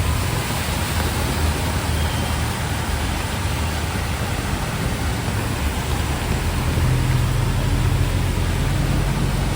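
Heavy rain hissing steadily over road traffic, with vehicle engines rumbling low; an engine hum grows stronger about seven seconds in.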